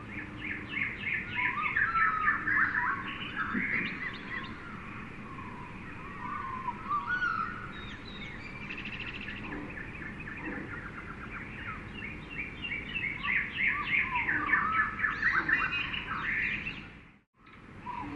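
Jungle ambience of many birds chirping, trilling and calling over one another, over a steady background hiss. The birdsong swells twice, then the sound cuts out for a moment near the end before resuming.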